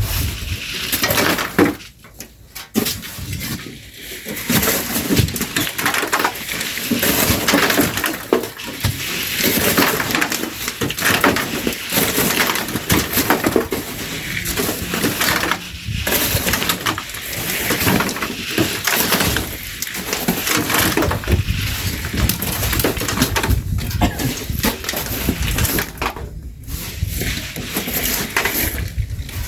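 Shovels scraping and scooping sand and gravel, a steady run of overlapping scrapes and knocks from hand-loading sand.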